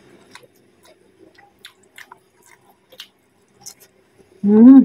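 Close-miked wet chewing and mouth clicks as rice is eaten by hand, heard as scattered small ticks. Near the end comes one short, loud voice sound that rises and falls in pitch.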